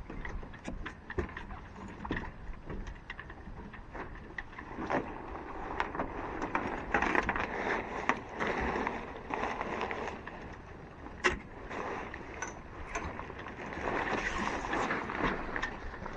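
Sailcloth of a yacht's foresail rustling and crumpling in irregular swells as it is handled and folded, with scattered sharp clicks and knocks from hardware and the deck.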